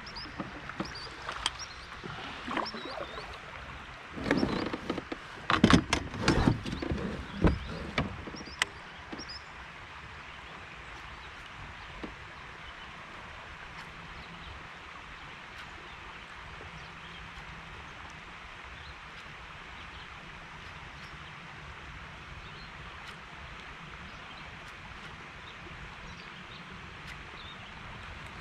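Knocks and clatter in a kayak, the loudest cluster about four to eight seconds in, then a steady faint outdoor background.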